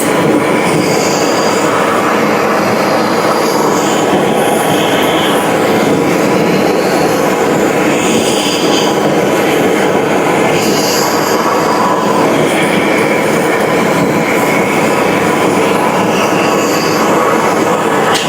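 Loud, steady machinery noise.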